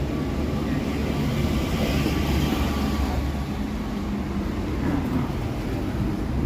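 Steady low rumble of passing street traffic, with a broad rush that swells about two seconds in.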